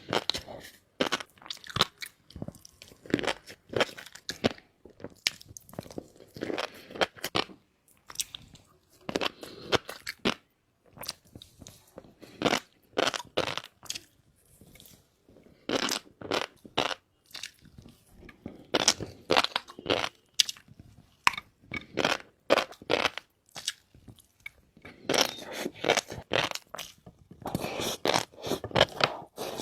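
Close-miked eating: a person chewing shrimp with fish roe, with repeated crunchy, crackly bites in clusters broken by short pauses.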